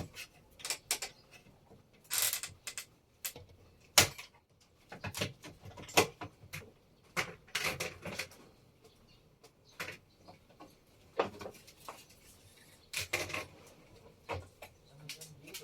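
Irregular clicks, knocks and short scrapes of objects being handled, with one sharp knock about four seconds in.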